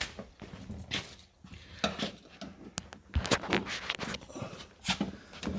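Scattered clicks and light knocks of hard plastic and metal parts as a car's outside door handle is worked into place inside the door.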